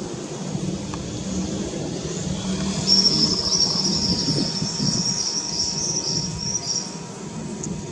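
Cessna 550 Citation II's twin turbofan engines rumbling as the jet passes over, with a high, slightly wavering whine in the middle of the stretch.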